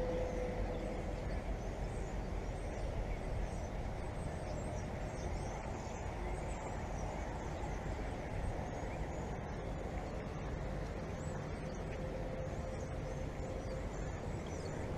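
Wind buffeting the microphone, a steady low rumbling noise, with faint high chirping above it.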